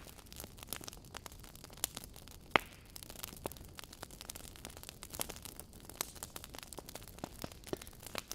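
Wood fire burning in a fireplace, the logs crackling with many irregular small pops over a low hiss, and one sharper, louder pop about two and a half seconds in.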